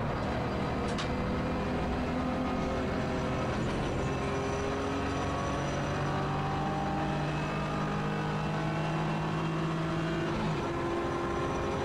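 BMW E46 325ti Compact race car's 2.5-litre inline-six running hard, heard from inside the cabin over road and wind noise. The engine note holds nearly steady through a long bend, then changes abruptly near the end.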